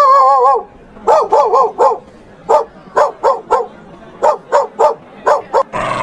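A dog barking in short, high yaps that come in quick runs of three or four, after a brief wavering howl at the start; a short noisy burst follows near the end.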